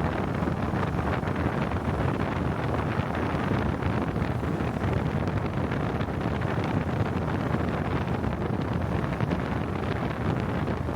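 Steady wind rush over the microphone while riding a motorcycle, with the Honda XL250S's engine running underneath at a constant pace.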